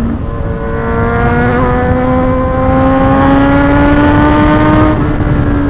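Motorcycle engine pulling steadily under acceleration, its pitch climbing slowly for about five seconds and easing off near the end, over low wind rush.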